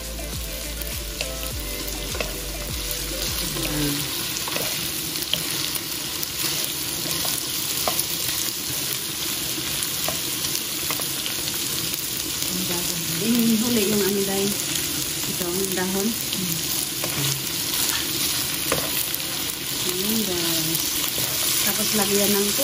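Pork and sliced vegetables sizzling in a hot nonstick wok, a steady frying hiss, while a wooden spatula stirs and scrapes through them with frequent light knocks against the pan.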